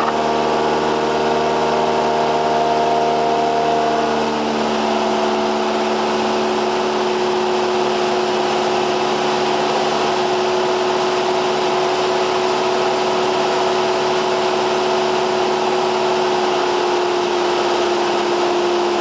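Cessna 172R's four-cylinder Lycoming IO-360 engine and propeller running steadily in flight. The engine note changes about four and a half seconds in, a change of power setting, then holds steady.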